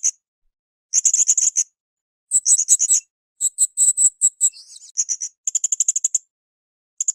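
Blue-crowned hanging parrot (srindit) calling in short, high-pitched phrases of rapid repeated notes, each phrase under a second long with brief pauses between them. The middle phrase is pitched higher than the others.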